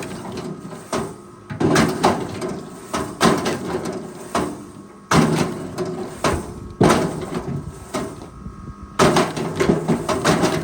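Repeated heavy knocks and clunks: a dozen or so sudden hits, with rattling and scraping between them.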